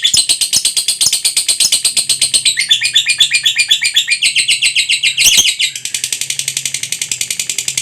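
Lovebird ngekek: a long, continuous chattering trill of sharp high notes, about ten a second. About five seconds in there is a brief louder break, then the trill carries on a little quieter.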